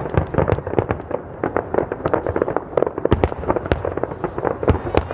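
Aerial fireworks bursting in rapid succession: a dense, irregular crackle of sharp reports, with a few heavier low booms around the middle.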